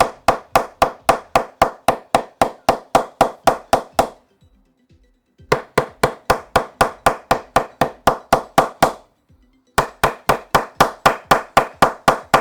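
Repaired cricket bat being struck in quick, even knocks, about four a second, in three runs broken by two short pauses: the willow around a freshly repaired Lamitoe toe is being tested before it is taped.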